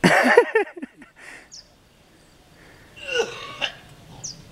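A person's loud, spasmodic non-speech vocal outburst, lasting about a second, then a second shorter one about three seconds in.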